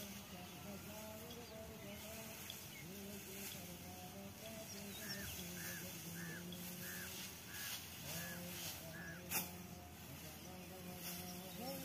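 A bird calling: seven short, evenly repeated notes about half a second apart, with a single sharp click just after the last one.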